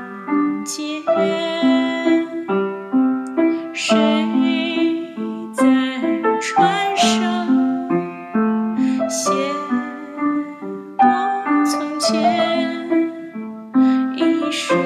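Keyboard playing a slow, gentle melody over sustained chords, with a new note or chord struck about every half second.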